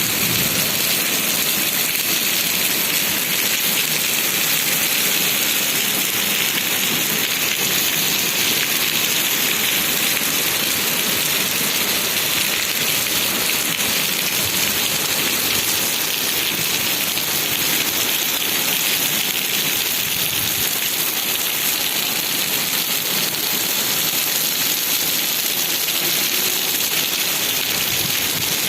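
Heavy rain pouring down steadily, an even hiss of rain on surfaces that does not let up.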